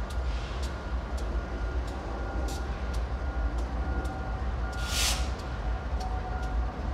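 Metrolink commuter train approaching from a distance: a steady low rumble with faint ticks, and one brief hiss about five seconds in.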